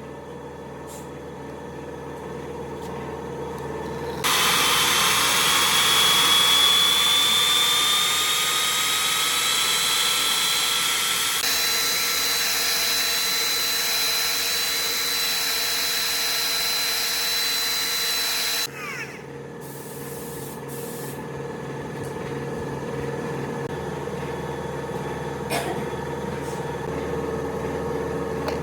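A high-speed power tool starts suddenly about four seconds in and runs for about fourteen seconds, its whine rising slowly in pitch. It then cuts off and winds down quickly. A quieter steady hum carries on underneath.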